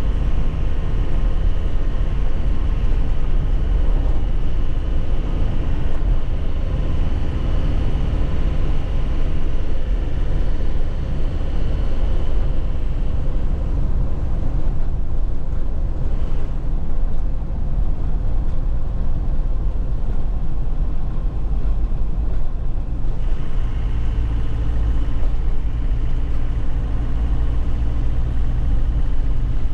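A 2001 Nissan Cabstar light truck's diesel engine running under way, with a steady low rumble of engine and road noise. About halfway the higher hiss falls away for some ten seconds, and near the end the engine note comes back with a stronger, steady low hum.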